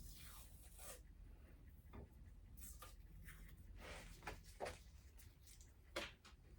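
Faint scattered scrapes and clicks, the sharpest about six seconds in, over a low steady hum.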